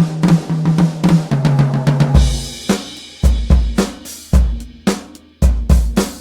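Sampled acoustic drum kit from Toontrack EZdrummer 3 playing a pattern. It opens with a quick fill of strokes stepping down in pitch across the toms, then a crash cymbal with a kick drum about two seconds in, then a kick-and-snare beat.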